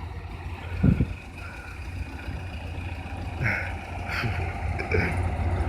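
Bizon Z056 combine harvester's diesel engine running steadily with a deep drone, with a thump about a second in and a few short higher-pitched blips in the second half.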